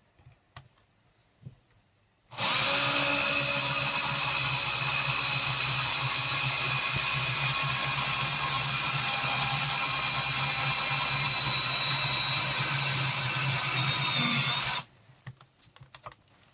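Cordless electric drill boring a hole through steel at a steady speed. It starts about two seconds in, runs for about twelve seconds and stops abruptly.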